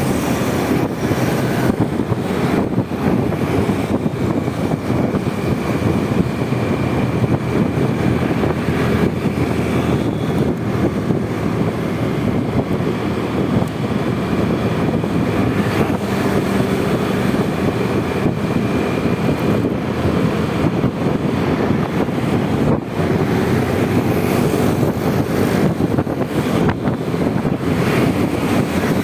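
Wind buffeting the microphone on a moving Honda Vario 125 scooter, over the steady running of its small single-cylinder engine and road noise.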